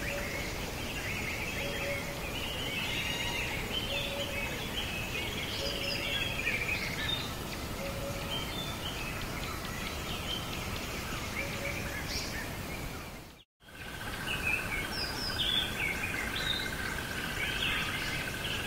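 Nature ambience of many small birds chirping and singing over a steady background hiss. About thirteen seconds in it cuts out for a moment; after that a steady high insect-like hum sounds under the birds.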